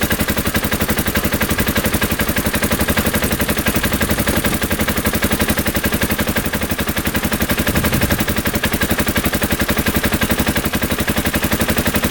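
2015 Polaris Ranger 570's single-cylinder engine idling cold, just restarted after a rebuild, with a steady, even exhaust beat of several pulses a second.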